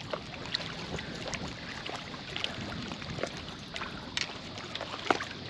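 River water flowing: a steady wash with many small, scattered splashes.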